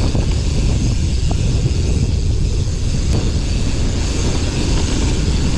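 Mountain bike riding over rough, wet ground, with a steady, loud rumble of wind and tyre noise on the camera's microphone and a couple of faint clicks from the bike.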